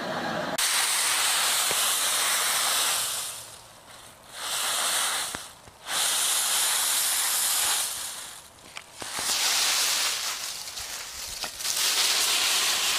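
Dry fallen leaves rustling as a small puppy bounds and burrows through a leaf pile, in several long bursts with short pauses between them.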